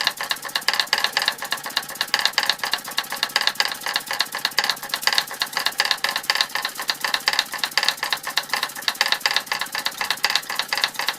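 Martinet toy steam hammers, driven by a 1905 Fritz Neumeier toy steam engine, tapping in a fast, even rhythm as their heads strike a plastic Lego hammer block.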